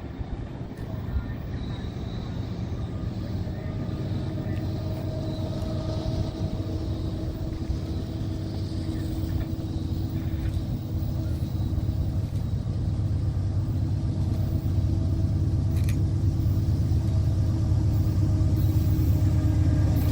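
Diesel locomotive engine drone, a steady low rumble with a hum that grows gradually louder as the locomotive approaches.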